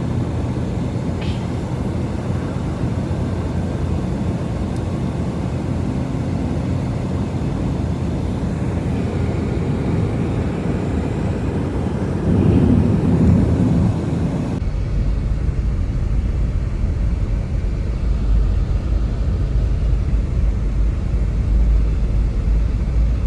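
Strong wind rumbling steadily on the microphone, turning deeper and heavier about two-thirds of the way through.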